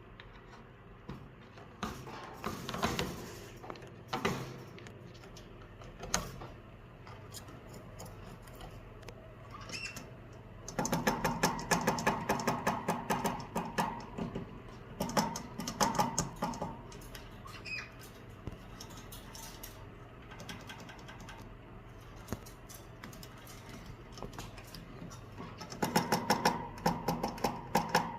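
A caique parrot gnawing at its sleeping box with its beak: rapid runs of clicking and scraping that come in bursts of a few seconds, with quieter pauses between.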